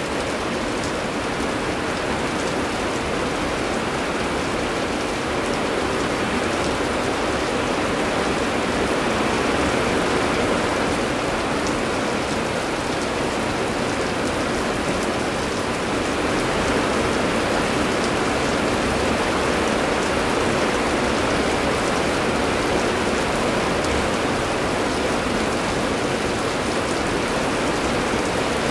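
Steady heavy rain with scattered drop ticks.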